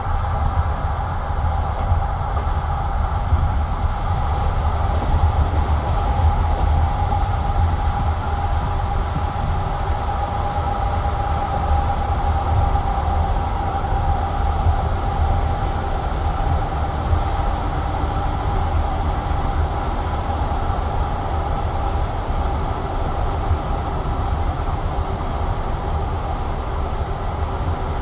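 Passenger train running steadily between stations: a continuous low rumble of the wheels on the rails, with a steady hum near the middle of the range.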